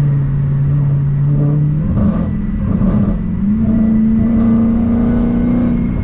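Dodge Challenger Hellcat's supercharged 6.2-litre V8 running under way, heard from inside the cabin. It holds a steady low drone, the note breaks up about two seconds in, then settles at a higher, steady pitch.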